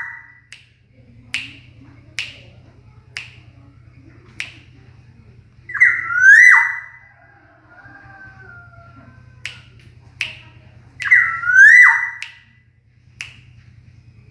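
Caged black-naped oriole (kepodang) giving two loud fluty whistled calls, each a swooping note that dips and rises and then drops sharply, about five seconds apart. Sharp single clicks come between the calls, over a steady low hum.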